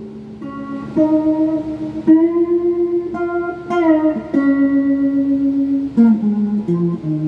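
Semi-hollow electric guitar (a Donner '72 Thinline-style clone) played through a phaser and a Klon-style overdrive into a Peavey Backstage Plus amp: a slow single-note lead line of held notes with string bends, ending in a few quicker notes stepping down in pitch.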